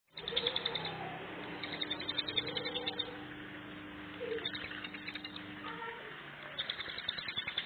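Ciblek gunung (hill prinia) singing in dense, rapid-fire bursts of sharp, fast-repeated high notes, several bursts in a row.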